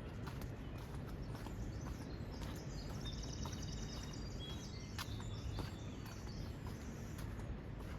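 Footsteps on a trail at a steady walking pace, about two steps a second, over a steady low background rumble. A small bird sings a short run of chirps and a trill about three seconds in.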